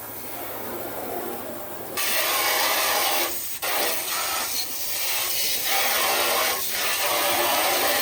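Abrasive rubbing noise that starts suddenly about two seconds in and goes on in long strokes broken by brief pauses every second or so.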